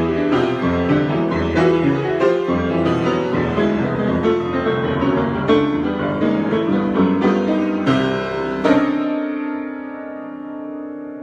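Piano improvisation: a flowing run of notes and chords, then a louder chord struck near the end and left to ring and fade.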